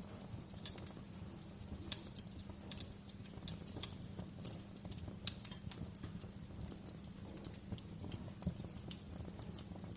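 Wood fire crackling: irregular sharp pops and snaps, a few each second, over a low steady rumble of burning.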